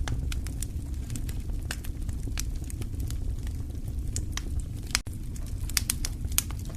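Wood fire in a fireplace crackling: irregular sharp pops and snaps over a steady low rumble of burning logs, with a momentary drop in the sound about five seconds in.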